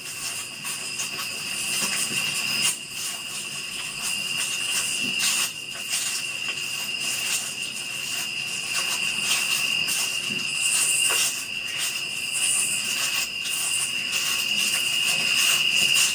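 Insects calling in a steady, high-pitched chorus, with scattered short clicks over it.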